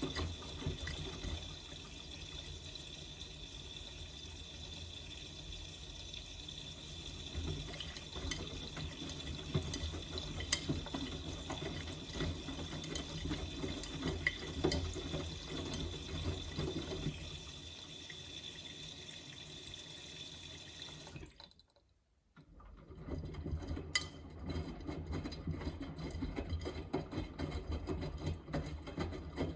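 Miele Navitronic W3985 washing machine in its first rinse: water hissing in while the drum tumbles the laundry. About 21 seconds in, the sound drops away briefly, then the drum turns on without the water hiss.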